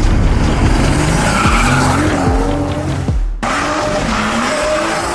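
BMW M140i's turbocharged straight-six engine revving hard, its pitch climbing and falling through the gears, with music underneath; the sound cuts off abruptly about three seconds in and picks up again.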